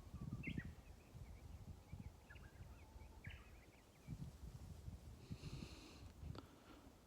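Small birds chirping faintly, many short high chirps scattered through, with a brief buzzy trill a little over five seconds in, over a low rumbling background noise.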